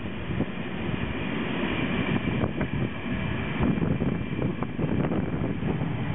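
Passenger train carriages rolling past close by: a steady rumble of wheels on the rails, with a few sharp clicks.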